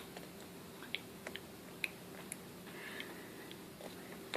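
Faint chewing and small mouth clicks on a marshmallow Peep candy: a handful of soft scattered smacks.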